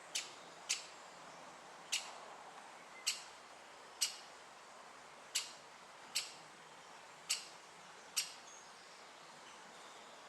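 Great spotted woodpecker giving its sharp, high "kik" call nine times, irregularly, about once a second.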